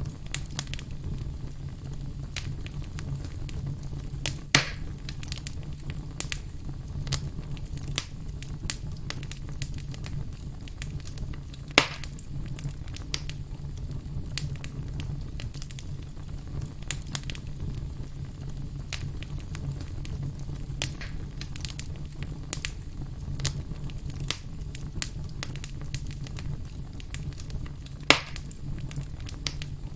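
Firewood burning, with a steady low rumble and frequent small crackles. Three sharp, louder pops stand out: a few seconds in, near the middle and near the end.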